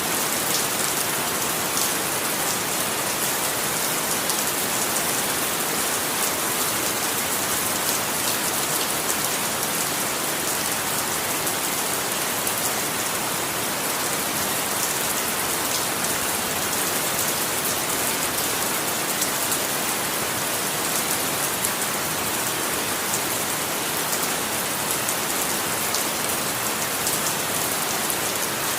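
Steady rain falling and pattering on a surface, a dense even hiss with many fine drop ticks and no thunder.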